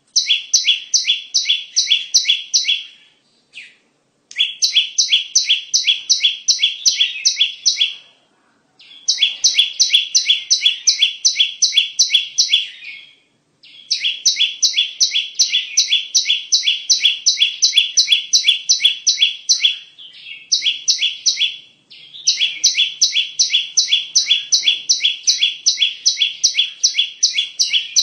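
Bar-winged prinia (ciblek) song played as a trapping lure. It comes as runs of rapid, sharp, evenly repeated notes, about four a second, in phrases of three to five seconds with short breaks between.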